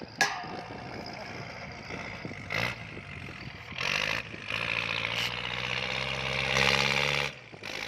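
Kubota L4708 tractor's diesel engine working hard as it pushes a pile of soil, loud, its note growing stronger through the second half and then dropping off sharply near the end. A few short sharp knocks come through along the way.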